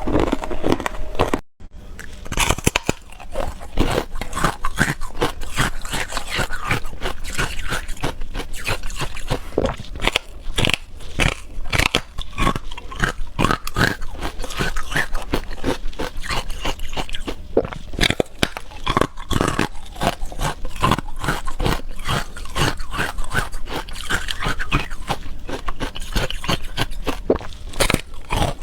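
Ice being bitten and chewed: a dense, irregular run of sharp crunches and cracks, with a brief break about one and a half seconds in.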